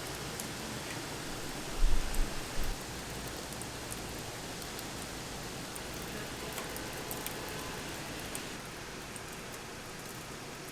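A steady rushing noise, with a few low thumps about two seconds in; it cuts off abruptly at the end.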